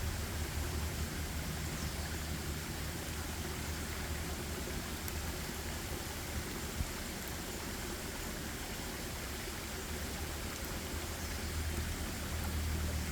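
Steady forest ambience: an even wash of noise with a low rumble underneath and a few faint ticks.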